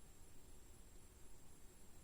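Near silence: room tone with a faint low rumble and a thin steady high-pitched whine.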